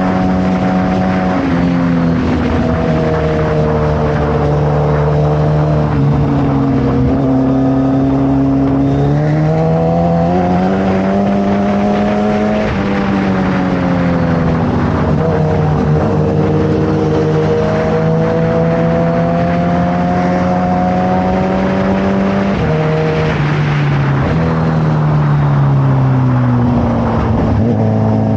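Suzuki Hayabusa's inline-four engine running through a Brock's full exhaust while riding. The note holds steady in stretches, climbs and falls, and steps abruptly in pitch several times, as with gear changes.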